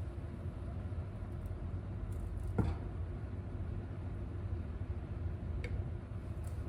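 Kitchen range-hood ventilation fan running with a steady low hum, with one sharp clink about two and a half seconds in and a fainter tick near the end.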